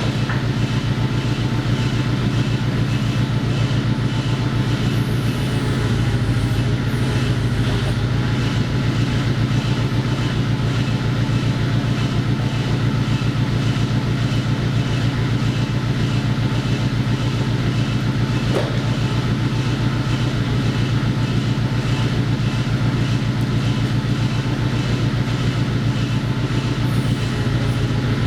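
A machine motor running steadily: a loud, even drone with a fast throb that does not change.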